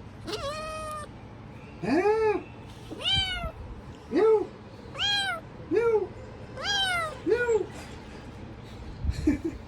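A domestic cat meowing about eight times in a row, each call rising and then falling in pitch.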